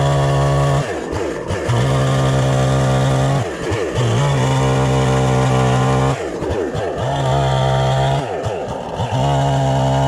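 NEO-TEC NH872 71cc two-stroke chainsaw held at high revs for a second or two at a time, with the throttle let off and reopened about four times, so the engine note drops and climbs back between steady stretches.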